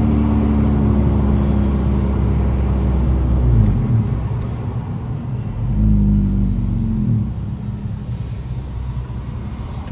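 Proton Waja's Mitsubishi 4G18 engine through a custom full-piping exhaust, running at held revs that drop away after about three and a half seconds, rising again around six seconds in, then settling back to a lower, steady note.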